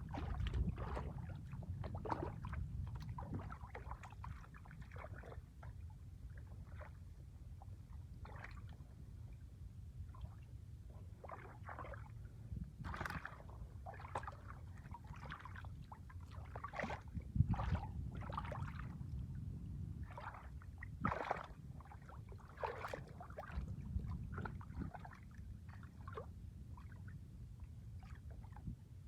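Shallow water splashing and sloshing in short, irregular splashes over a low steady rumble, a few of them louder.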